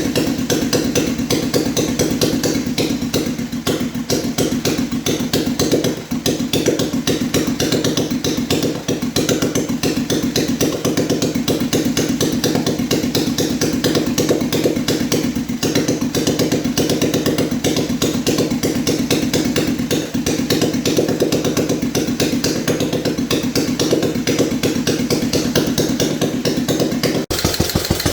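A freshly rebuilt BMW R35 single-cylinder four-stroke engine running steadily on a test run, with a rapid, even beat of firing pulses. About a second before the end, the sound cuts to a faster, sharper beat.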